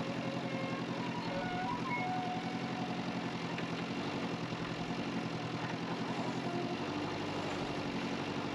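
Backhoe excavator's diesel engine running steadily under work, its pitch shifting slightly a couple of times as the operator works the arm.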